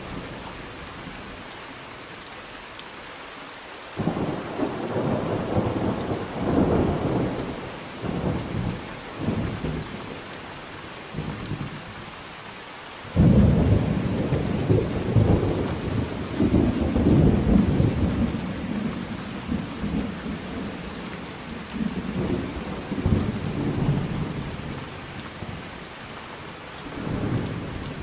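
Thunderstorm: steady rain with long rolls of thunder. One rumble starts suddenly about four seconds in and rolls for several seconds, and a louder clap comes about thirteen seconds in and rumbles on for over ten seconds, with another swell near the end.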